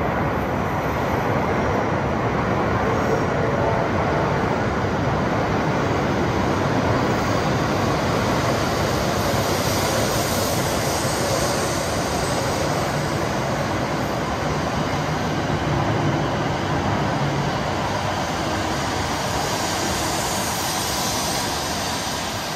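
Shinkansen train moving along an underground station platform: a steady rumble and rush of air and wheels that eases slightly near the end.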